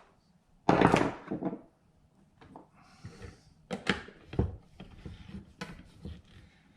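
Hand tools and alternator parts handled on a workbench during reassembly. There is a loud clattering rustle about a second in, then scattered knocks and clicks.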